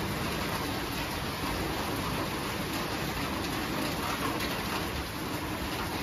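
Steady rain falling, an even hiss of many drops with no single sound standing out.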